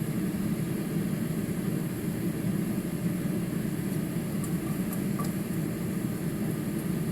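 Egg noodles pan-frying in hot oil with a steady sizzle, over a steady low mechanical hum.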